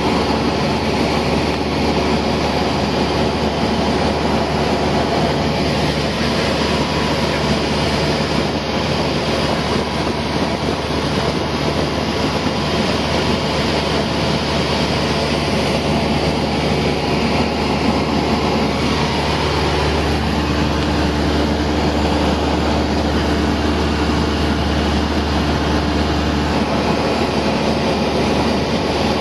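Cessna 172 engine and propeller droning steadily, heard from inside the cabin in flight, with a constant low hum under a loud rushing noise.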